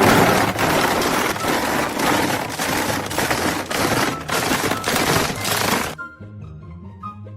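Loud harsh crackling and rattling with rapid irregular snaps, cutting off suddenly about six seconds in, after which background music carries on.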